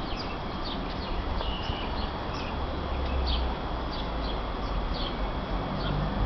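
Wild birds chirping and singing: many short, quick calls in a high register, one after another, over a steady low rumble.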